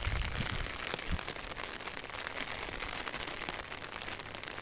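Light rain pattering steadily as a fine, even spatter of drops, with a few low thumps in the first second or so.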